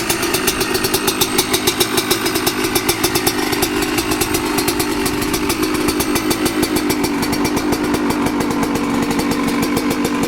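2005 Yamaha YZ125's 125 cc two-stroke single-cylinder engine idling with a fast, uneven popping beat, its revs settling slightly lower about halfway through.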